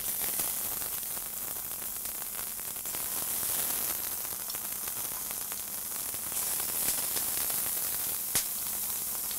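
Sea scallops sizzling as they are laid one at a time into safflower oil in a very hot cast iron skillet, heated to about its smoke point: a steady hiss, with a single sharp click about eight seconds in.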